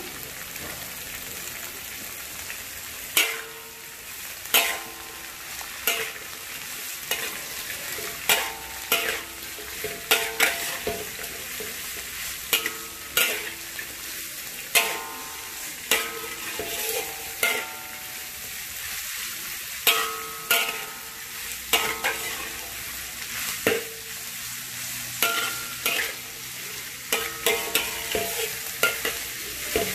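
Sliced onions sizzling steadily in oil in a large metal wok while a metal ladle stirs them. The ladle scrapes and knocks against the wok about once a second from about three seconds in, and each knock rings briefly.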